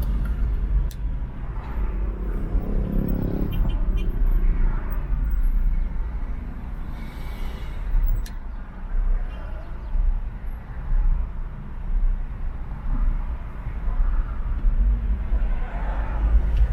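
Road noise from a car driving along an urban expressway: a heavy, steady low rumble of tyres and engine mixed with surrounding traffic, with a few faint clicks and a brief hiss about seven seconds in.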